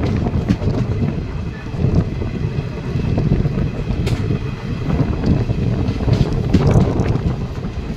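Passenger express train running at speed, heard from an open coach door: a steady rumble of wheels on rails with wind buffeting the microphone. A few sharp clacks come about four seconds in and again near the end as the wheels run over rail joints and points.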